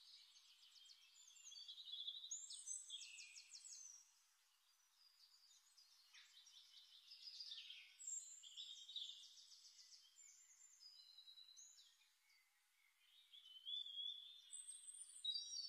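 Faint songbird song: high chirps, whistles and rapid trills in phrases, broken by two short pauses.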